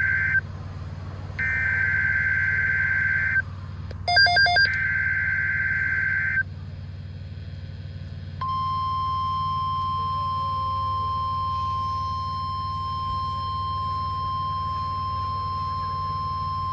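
NOAA Weather Radio emergency alert: the screechy SAME digital header bursts play (the end of one, then two more, each about two seconds), with a brief cluster of quick beeps about four seconds in. About eight seconds in, the steady 1050 Hz warning alarm tone starts and holds, signalling that a severe weather alert message follows.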